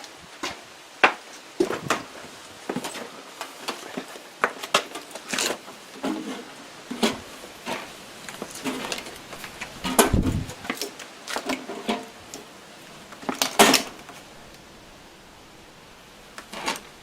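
Irregular clicks, clinks and knocks of small metal parts and hand tools being handled and set down, with a couple of louder knocks about ten and thirteen seconds in.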